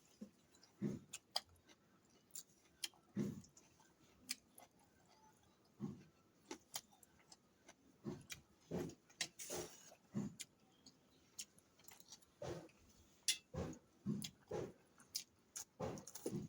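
Eating sounds: chewing, with irregular sharp clinks of cutlery against a plate.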